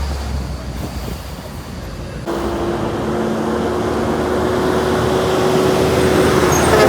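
Heavy truck on a highway drawing closer. Its engine and tyre noise come in abruptly about two seconds in, with a steady low hum, and grow steadily louder to the end.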